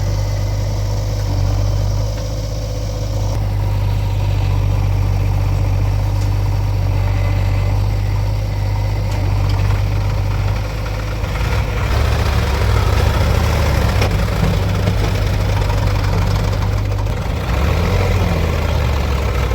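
Heavy diesel engine running steadily with a low hum, getting louder about eleven seconds in and again near the end as it works harder.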